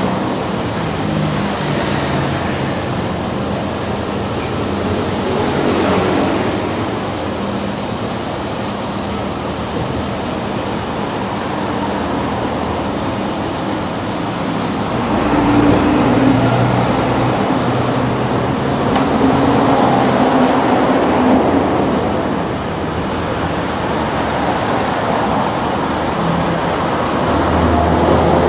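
Water spraying over a Renault Safrane's engine bay, a steady hiss of spray with a low motor hum underneath that swells and eases a few times.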